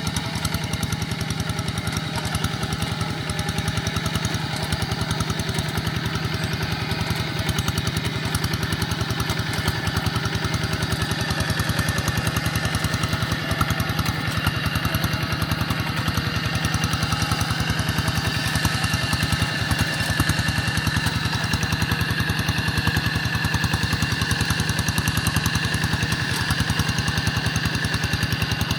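Quick G1000 walking tractor's engine running steadily with a fast, even firing beat while it pulls a moldboard plough.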